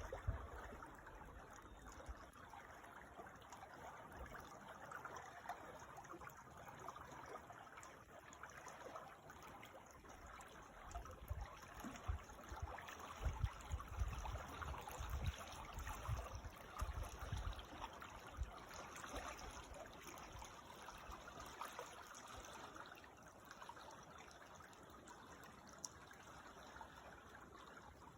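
Creek water trickling and babbling steadily. About halfway through there are low rumbles of wind buffeting the microphone.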